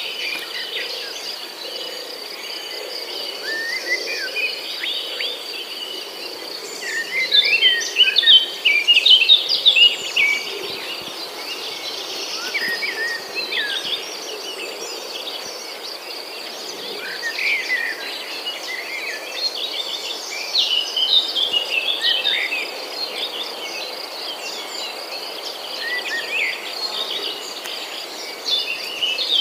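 Many small birds chirping and calling in quick, overlapping notes, busiest in a few flurries, over a steady high-pitched thin whine.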